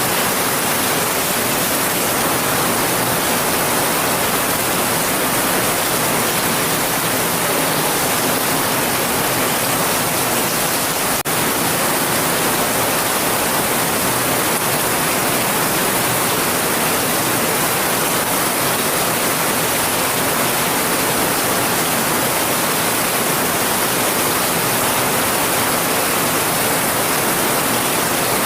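Heavy rain falling steadily as a dense, even hiss, with a momentary break about eleven seconds in.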